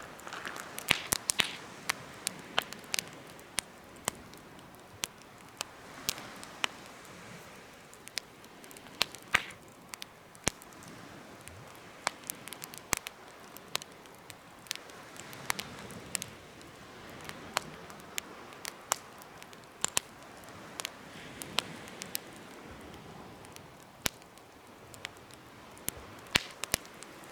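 Wood campfire burning, with sharp, irregular crackles and pops over a soft, steady rush of flame.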